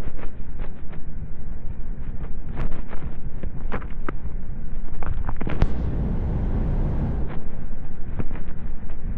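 Lorry cab noise at motorway speed: a steady low rumble from the road and drivetrain, broken by irregular sharp knocks and rattles. A hiss swells in about halfway through and stops about two seconds later.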